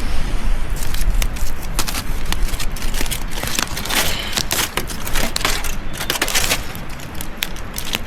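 Wood campfire crackling with many quick sharp pops, and two bursts of crinkly rustling about four and six seconds in from an aluminium-foil dinner pack being opened.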